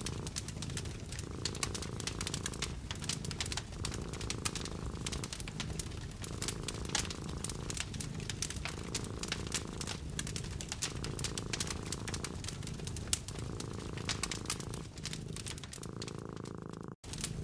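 A cat purring, a low steady rumble that swells and dips with each breath, over the dense popping and crackling of a wood fire. The sound cuts out for an instant near the end.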